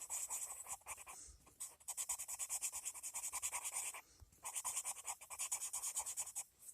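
Coloured pencil shading on paper: quick back-and-forth scratchy strokes, several a second, in runs with brief pauses.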